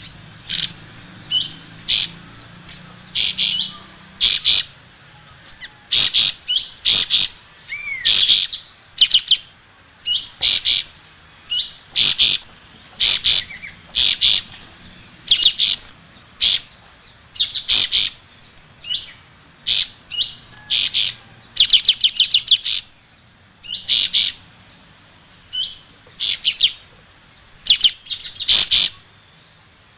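Kapas tembak songbird singing: short, loud clusters of quick high chirps, one after another about once a second, with a single rising whistled note about a third of the way through.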